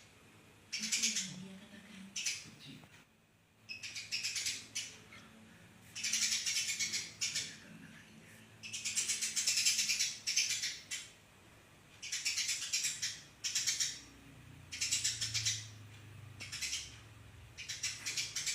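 Eurasian tree sparrow chirping in fast, tightly packed bursts of high chirps. The bursts come again and again, each from half a second to about two seconds long, with brief pauses between them.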